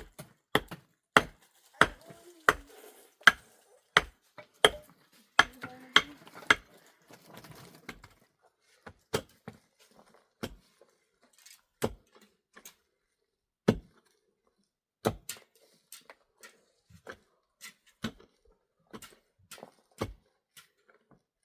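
A series of sharp knocks or blows, about one every two-thirds of a second for the first six seconds or so, then slower, scattered strikes with pauses between.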